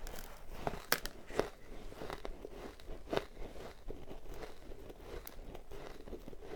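Close-up crunching and chewing of soft, powdery ice: irregular crisp crunches, the sharpest about one second in and about three seconds in, between softer gritty chewing.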